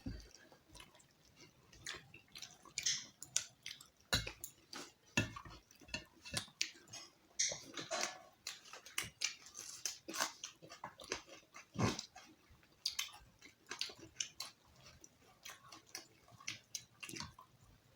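Close-miked chewing and wet mouth sounds of someone eating roti and chicken curry, a steady run of irregular smacks and clicks.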